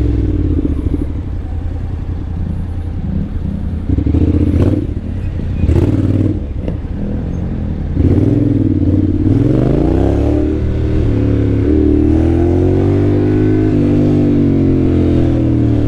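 Honda X-ADV 750's parallel-twin engine, breathing through an aftermarket dual-outlet exhaust, pulling away and easing off again and again while riding, its pitch rising and falling. A few short knocks come about five to six seconds in.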